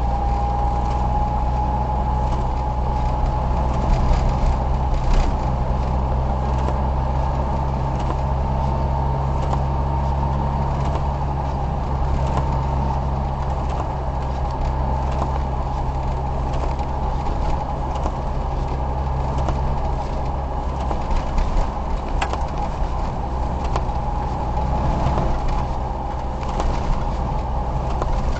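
Car interior: steady engine and road noise with a low hum, a faint steady whine and scattered light ticks.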